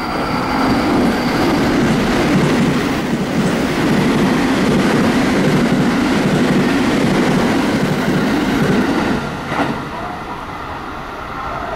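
A white electric multiple-unit train running through the station at speed. Its wheels on the rails make a loud, steady rumble that swells about half a second in and falls away after about nine and a half seconds.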